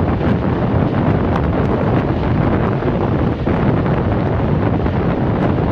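Wind buffeting the microphone at an open window of a moving passenger train, over the steady rumble of the train running on the rails.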